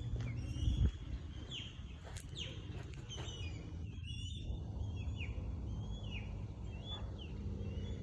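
Birds calling again and again: short, sharp, high chirps that slide downward in pitch, one after another, over a low steady rumble.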